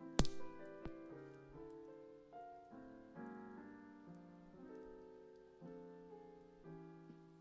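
Gentle piano background music, its notes changing about every half second. Just after the start a single sharp crack rises loudly above it, with a fainter one just before a second in, likely wood popping in the campfire.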